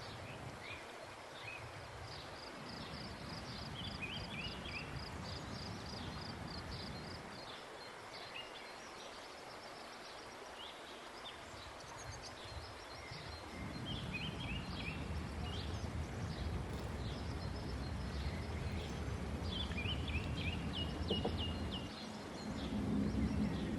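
Small birds chirping and trilling repeatedly over a low, steady outdoor rumble, which grows louder about halfway through.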